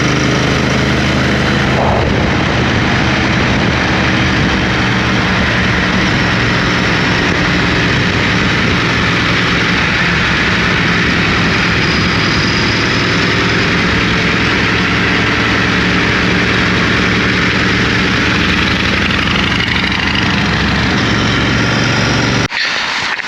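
Motorcycle engine running at a steady cruising speed, with a rush of wind and road noise. The sound cuts off abruptly about a second before the end.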